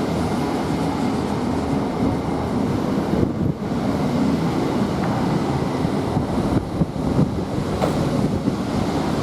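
Avanti West Coast Class 807 electric train running along the platform, a steady loud rumble of wheels on rail with a few light clicks.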